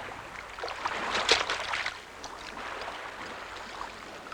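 Water splashing and lapping alongside a small boat as a baited float is lowered over the side, loudest a little over a second in.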